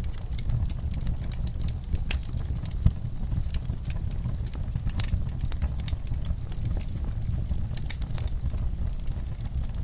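Wood fire in a fireplace crackling, with a steady low rumble of the flames and irregular sharp pops and snaps; one louder pop about three seconds in.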